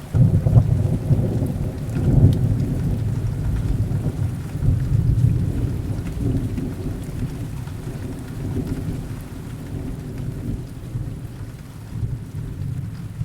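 Heavy rain with a long, deep roll of thunder. The thunder breaks in at the start, swells again about two seconds in, then rumbles on and slowly eases off.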